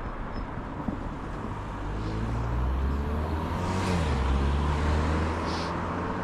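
A motor vehicle's engine passing close by, building from about two seconds in, loudest around four to five seconds, with a brief dip in pitch midway, over steady rushing road and wind noise.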